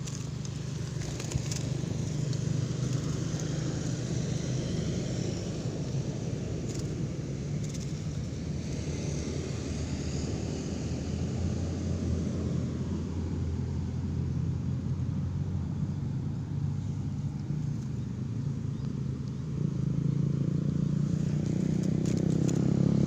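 A motor vehicle engine running steadily, getting louder in the last few seconds.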